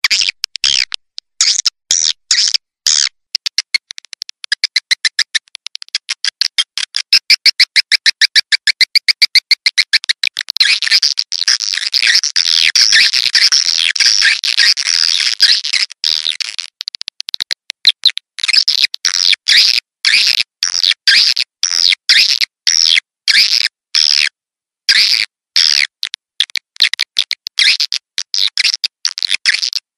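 Swiftlet lure-call recording ("suara tarik walet"), the calls of edible-nest swiftlets used to draw the birds into a nesting house: rapid high chirps, becoming a fast, even trill a few seconds in, then a dense burst of twittering, then separate chirps again with abrupt silent gaps between them.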